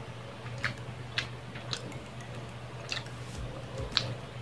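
Close-miked eating sounds: chewing with a few sharp, irregular wet clicks and smacks, and a louder one at a bite into a grilled skewer about four seconds in, over a steady low hum.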